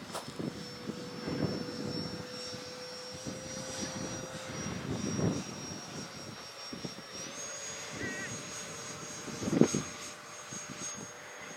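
Electric ducted-fan motor of an FMS 64mm Rafale RC jet giving a steady high whine in flight, its pitch stepping up about seven seconds in. Wind gusts buffet the microphone several times, loudest near the end.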